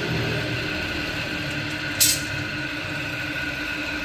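A steady engine hum, with a short, sharp hiss about two seconds in.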